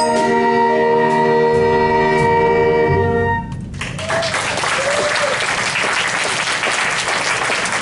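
School brass ensemble holding a final chord that cuts off about three and a half seconds in, followed by audience applause.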